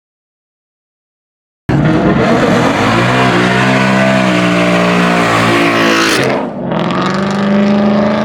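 Silence for nearly two seconds, then a car engine revving hard and held at high revs for about four seconds, with a harsh rushing noise on top; it eases briefly, then pulls again at a steady pitch.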